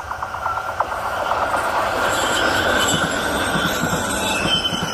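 High-speed train passing close by on a curve: a rapid clicking in the first second gives way to a rush of wheels on rail and air that grows louder as the train goes past, with faint high squealing tones in the second half.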